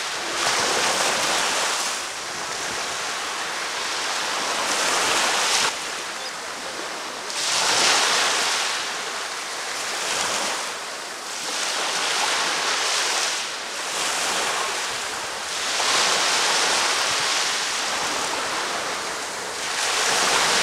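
Ocean waves breaking and washing ashore, swelling and falling back every few seconds.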